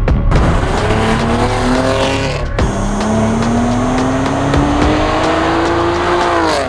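BMW G80 M3 Competition's twin-turbo straight-six with catless downpipes and a valved exhaust, accelerating hard: the pitch rises through one gear, breaks briefly for an upshift about two and a half seconds in, then climbs for a long pull through the next gear and drops as the throttle is lifted near the end.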